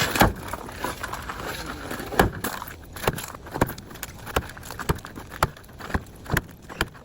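Repeated hard impacts on a truck's body as it is being smashed up: a series of sharp bangs at irregular intervals, roughly one every half second to a second.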